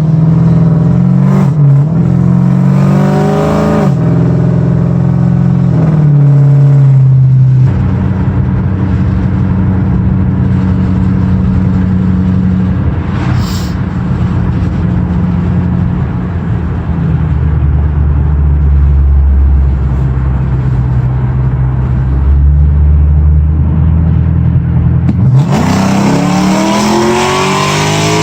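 2006 Ford Mustang GT's 4.6-litre V8 exhaust, open through MBRP muffler deletes and an off-road X-pipe, accelerating hard with the pitch climbing and dropping back at several upshifts. About eight seconds in it settles into steady cruising with a deep, low steady note, and near the end it climbs hard again under full throttle.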